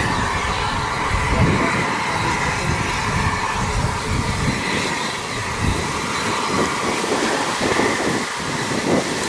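A train running on the line: steady rail and running noise over an uneven low rumble.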